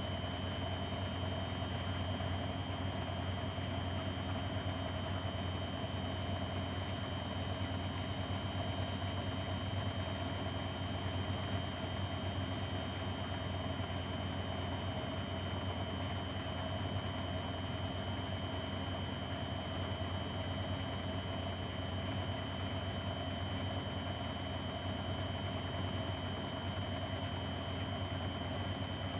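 Grundig front-loading washing machine running steadily: an even motor hum with a constant high whine over it, holding the same speed throughout.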